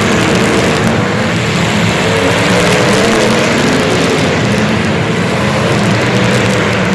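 A vehicle engine running steadily and loudly, its pitch wavering slightly up and down.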